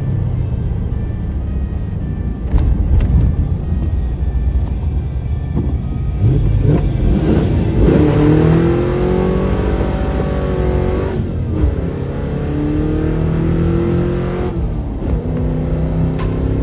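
V8 engine of a 1972 Ford Gran Torino Sport running with a steady low rumble; from about seven seconds in its pitch rises and falls as the engine is revved and eases off.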